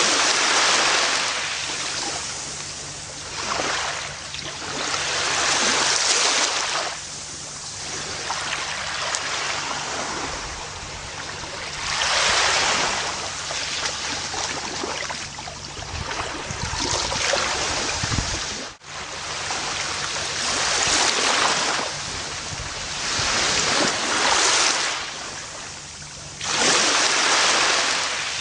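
Gentle ocean waves breaking and washing up a beach, swelling and falling away every few seconds, with a deeper surge rumbling just before a brief sudden gap about two-thirds of the way through.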